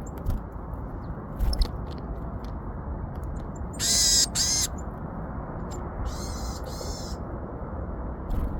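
Wild birds calling: two short harsh calls about halfway through, then two fainter, higher calls a couple of seconds later, over a steady rushing background with a few soft knocks.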